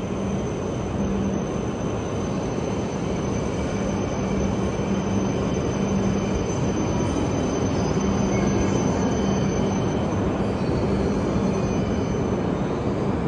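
E5 series Shinkansen rolling slowly along the platform as it runs in to stop, a steady running noise with a thin high whine over it.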